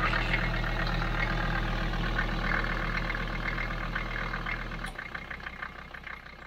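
Car engine running with a fast, uneven pulsing, the sound that earned the car the name 'quack quack car'. About five seconds in, the low hum drops out suddenly and what is left fades away.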